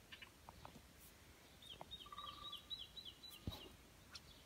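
A small bird singing faintly: a run of about eight quick, high, down-slurred notes over about two seconds, starting about a second and a half in, with a short lower trill among them. Faint scattered clicks are also heard.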